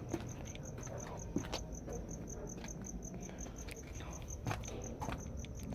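A cricket chirping steadily, a high pulsed chirp repeating about five times a second, with faint scattered clicks and taps.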